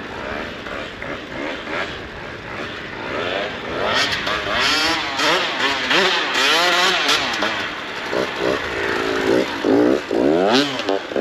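KTM 150 single-cylinder two-stroke dirt bike engine revving up and down repeatedly as it is ridden, its pitch rising and falling over and over. It gets louder about four seconds in.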